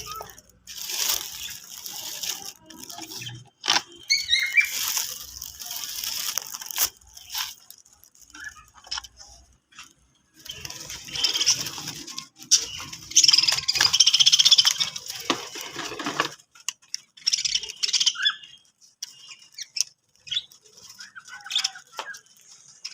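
Pet budgies chirping and chattering in irregular bursts of short high chirps, mixed with stretches of rustling noise and a few sharp clicks.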